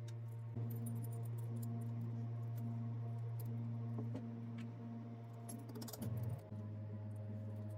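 Small metal parts clicking and clinking over a steady low machine hum, with a brief louder patch about six seconds in.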